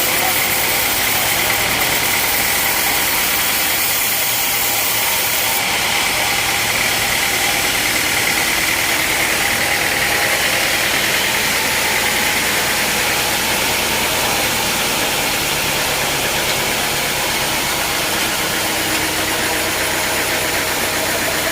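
An engine running steadily: a constant loud drone with heavy noise and no change in speed.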